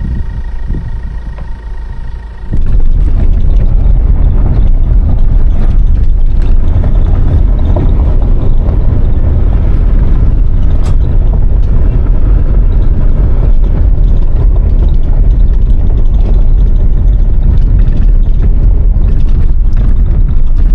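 Car driving on a rough road: a loud, steady low rumble of road and wind noise that jumps up abruptly about two and a half seconds in.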